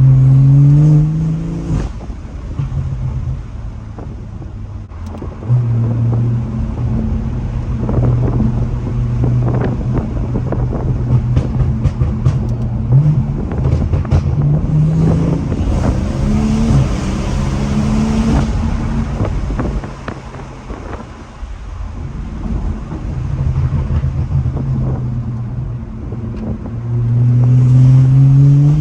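2018 BMW 440i's tuned B58 3.0-litre turbocharged inline-six with a catless downpipe and full straight-pipe exhaust, driven hard through repeated rises and drops in revs. The revs climb at the start, drop about two seconds in, hold and climb again through the middle, fall off about twenty seconds in, and climb again near the end. A scatter of sharp cracks runs through the middle.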